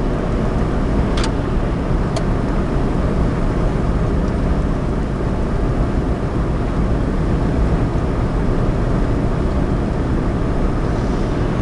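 Steady in-cabin drone of a Suzuki Alto 4WD kei car driving: engine and road noise, heaviest in the low end, with two short clicks a little after one and two seconds in.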